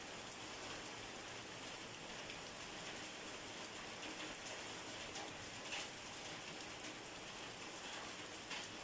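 Steady rain falling, an even hiss with scattered sharper drip ticks, a couple of them louder about six seconds in and near the end.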